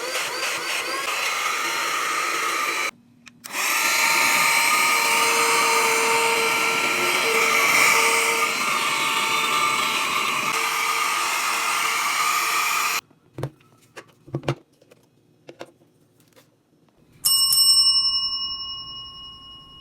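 Small cordless mini vacuum cleaner's motor running with a steady high whine, switched off briefly about three seconds in, then running again for about ten seconds before stopping, followed by a few clicks. Near the end a single bell-like ring sounds and fades slowly.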